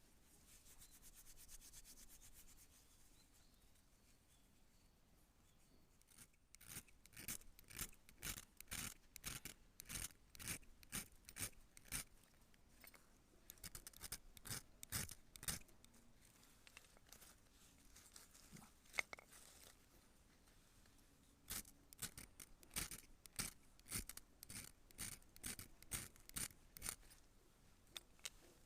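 Rhythmic rasping or scraping strokes, about two a second, in three runs separated by short pauses.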